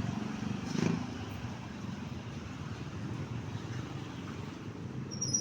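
Motor vehicle engines running with a steady low rumble, swelling briefly about a second in; a thin high tone starts near the end.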